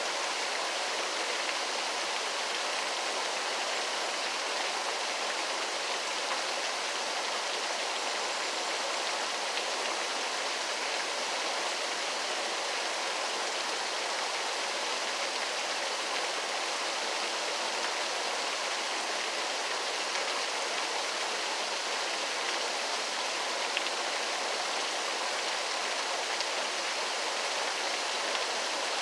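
Waterfall: falling water rushing and splashing in a steady, even hiss with little deep rumble.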